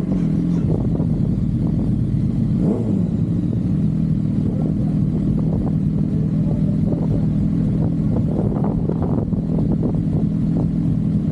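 Motorcycle engine running steadily at a near-constant pitch, with a brief small rise and fall in revs about two and a half seconds in.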